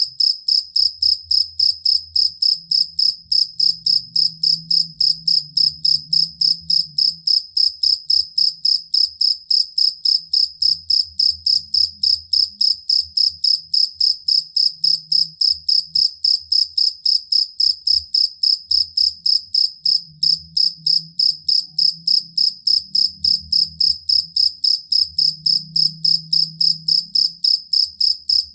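A cricket chirping in a steady, unbroken rhythm of about four chirps a second, each chirp a high, pure, ringing note. This is the kind of song used as a master recording for training songbirds.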